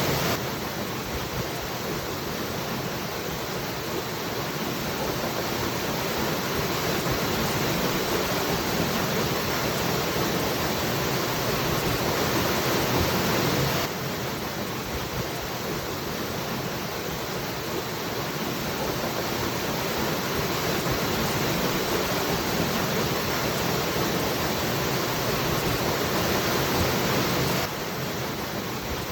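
Waterfall, a steady rush of falling water. The level drops suddenly by a little about every fourteen seconds and slowly builds again.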